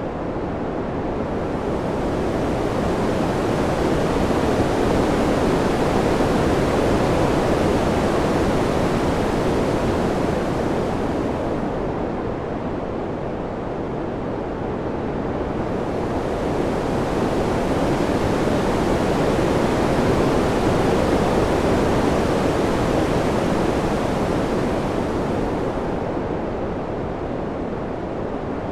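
Wind blowing as a steady rushing noise that swells and eases in slow waves. It is loudest about five seconds in and again around twenty seconds, and dips in between.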